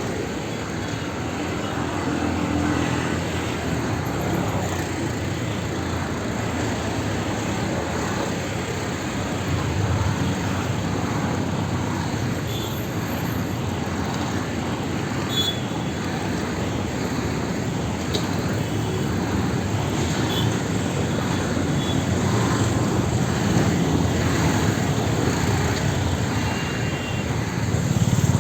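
Busy street traffic: a continuous mix of vehicle engines and road noise, with a few brief faint high tones and a louder swell near the end.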